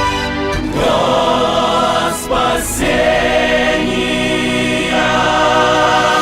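Gospel-style music with a choir singing sustained notes with vibrato over an instrumental backing.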